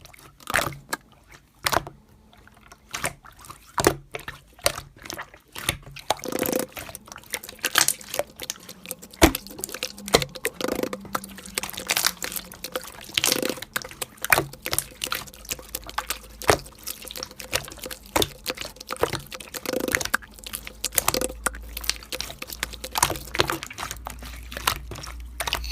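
Slime being squeezed and poked: an irregular run of wet clicks and pops.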